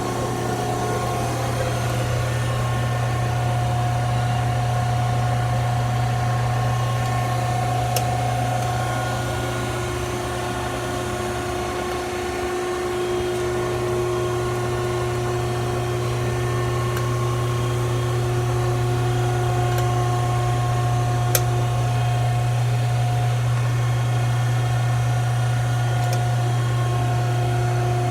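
Steady hum of a powered-up Wysong H2510 shear idling, its motor and hydraulic pump running at a constant level with a few faint clicks.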